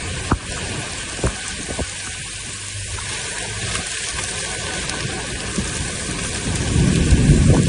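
Steady hiss of heavy rain, with a few sharp ticks in the first two seconds and a low rumble building near the end.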